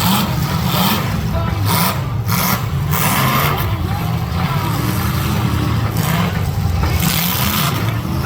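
Demolition derby cars' engines running and revving loudly, with a steady low rumble and a rough noise over it.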